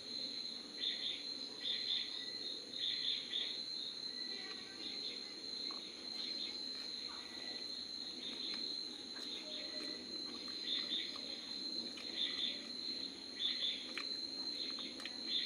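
Insects chirping in a steady high chorus, with pulsing chirps coming in irregularly about once a second.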